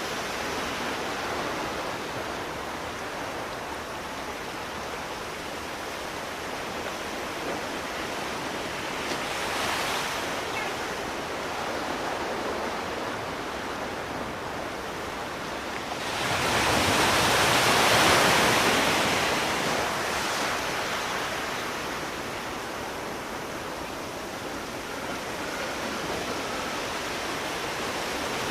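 Sea surf washing continuously on a shore, with a small swell about ten seconds in and a bigger wave breaking suddenly just past halfway that slowly fades, and another starting to build near the end.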